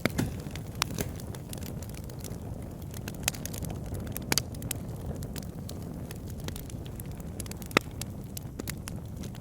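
Wood fire crackling in a fireplace: a steady low rumble of flame with frequent sharp pops and snaps, the loudest pop a little before the end.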